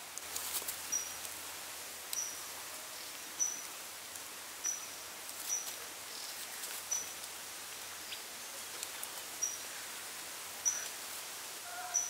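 A bird repeats one short, high chirp at an even pace, about once every second and a quarter, over a steady outdoor hiss with a few faint crackles.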